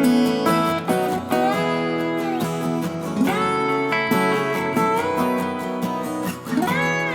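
Background music: acoustic guitar, plucked and strummed, with notes that slide and bend.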